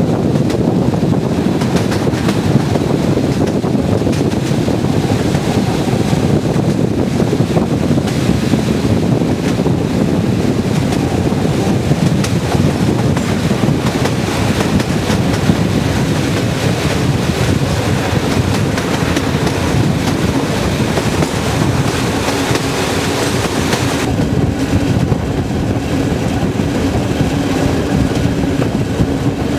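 Wind buffeting the microphone over the steady rumble of a moving train, recorded from an open window. About 24 s in, the hiss eases and a steady low hum comes in.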